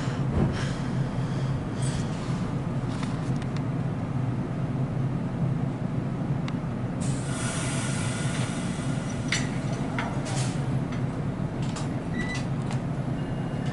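NJ Transit Multilevel commuter train standing at the platform with a steady low hum. Scattered clanks and clicks sound over it, and a burst of hiss comes about seven seconds in.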